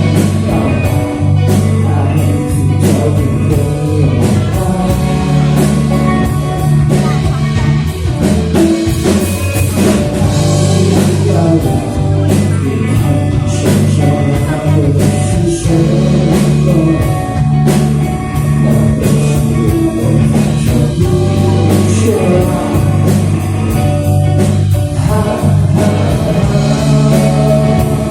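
A live rock band playing with singing over electric guitar and a drum kit, loud and steady.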